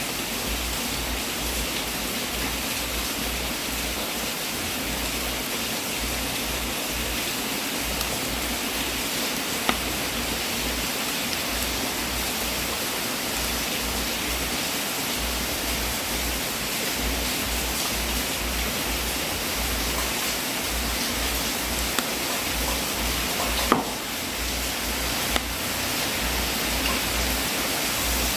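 Wood fire burning in a fireplace: a steady hiss of flames with four sharp pops, the loudest about three quarters of the way through.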